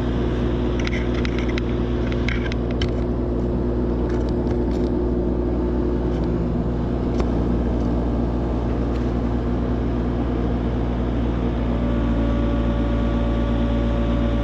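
Engine of the machine lifting the motor, running steadily at a low drone, with a few light metallic clinks early on. About twelve seconds in, a higher steady tone joins as the load is eased down.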